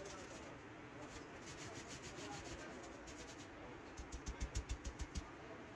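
Hand rasping or scraping on tire rubber in repeated rubbing strokes. They are faint at first, then a quick run of about eight louder strokes comes about four seconds in.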